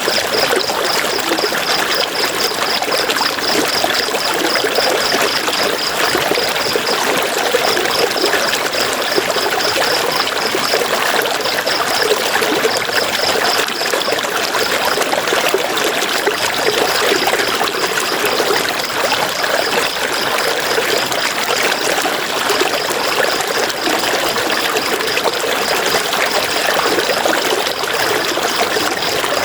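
River water flowing and splashing over rocks in a steady rush. A high, rapidly pulsing chirp runs over it in long stretches with short breaks.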